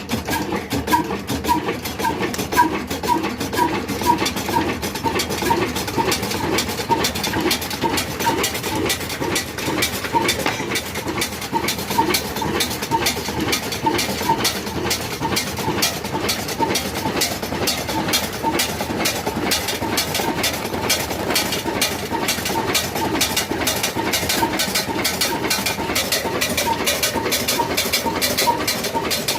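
Old stationary diesel engine running steadily at slow speed, with an even, regular beat.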